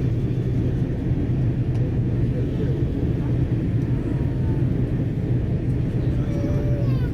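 Steady low rumble of cabin noise inside an Airbus A330-300 airliner: engines and airflow make an even drone with a hum underneath.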